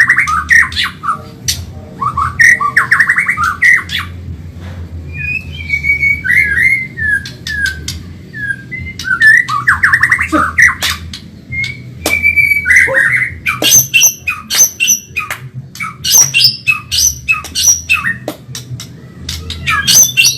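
White-rumped shama (murai batu, Medan type) singing fast and without pause: a varied run of rapid trills, sharp chipping notes and gliding whistles. A low steady hum runs underneath.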